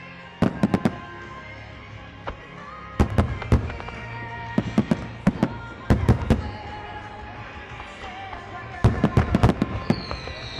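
Aerial fireworks bursting in quick clusters of sharp bangs, five volleys in all, over music played as part of a musical fireworks display. Near the end a falling whistle-like tone begins.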